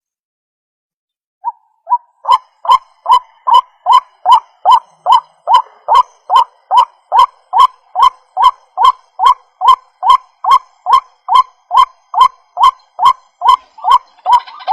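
White-breasted waterhen (ruak-ruak) calls played as a bird lure: after a second or so of silence, a steady run of identical repeated calls, a little over two a second.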